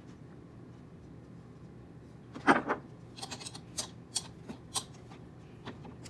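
Small clicks and taps from hands handling the 3D printer's hotend parts and wiring: one louder knock about two and a half seconds in, then a scatter of short sharp ticks over the next few seconds, over a faint steady hum.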